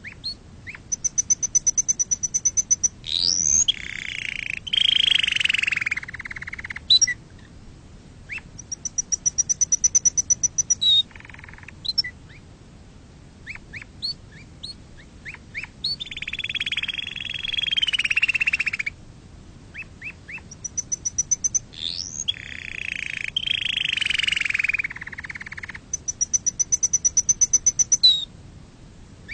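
Domestic canary singing: rapid trills of high notes repeated about ten times a second, alternating with lower rolling phrases, in bouts of a few seconds with short pauses between them.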